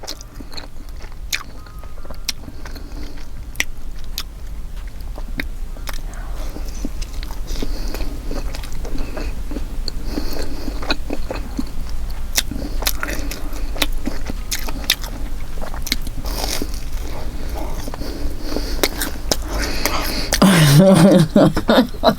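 Close-miked biting and chewing of frozen pizza with a crispy, cheese-puff-seasoned crust: many short crisp crackles and wet mouth sounds. A voice comes in near the end.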